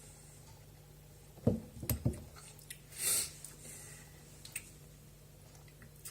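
Mouth and breath sounds of a man tasting beer: three soft, low sounds in quick succession about a second and a half in, then a short breath out about three seconds in, with a few faint clicks.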